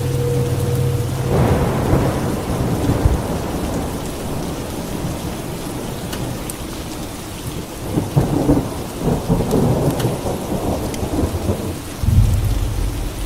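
Steady rain with rolling thunder: one rumble swells about a second in, and a longer, more broken rumble comes in the second half. A low steady hum with a held mid tone sounds at the start and returns near the end.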